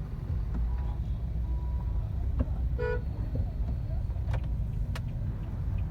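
Steady low road and engine rumble inside a moving car in traffic, with one short car-horn toot nearly three seconds in and a few sharp clicks.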